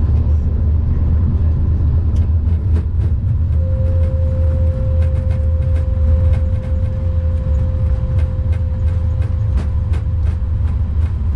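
Flight-deck noise of an Airbus A340-300 on its landing rollout: a loud, steady low rumble with many light knocks. A steady tone sounds from about three seconds in until near the end.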